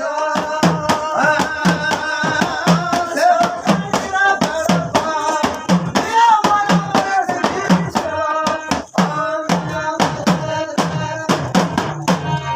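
Male voice singing a folk devotional song over fast, steady drum beats. The singing and drumming stop shortly before the end, leaving a held tone that fades.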